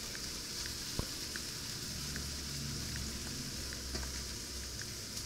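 Floured, egg-soaked alligator meat sizzling as it browns in a hot skillet with a thin film of olive oil: a steady frying hiss with small crackles, and a single light knock about a second in.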